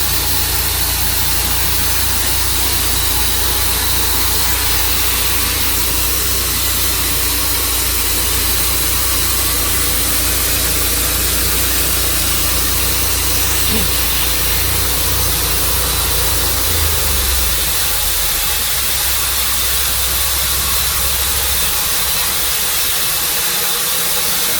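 Sawmill engine running steadily under a loud, even hiss. About seventeen seconds in, the engine's low hum changes, and it dies away a few seconds before the end while the hiss carries on.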